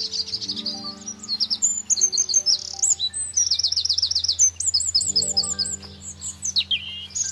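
Songbirds chirping and singing, with quick runs of rapid repeated high notes, over soft background music with held low notes.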